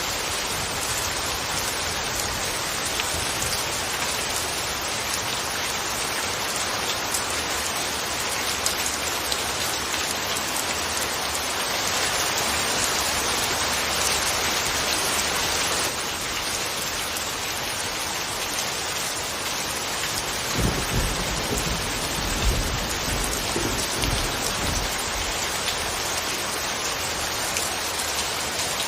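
Steady rain falling, heavier for a few seconds just before the middle. A low rumble of thunder comes in about two-thirds of the way through and lasts a few seconds.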